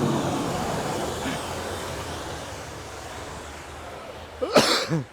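Snow plow truck clearing the road, its engine and blade noise steady, then slowly fading as it moves away. A short, loud burst of sound about four and a half seconds in.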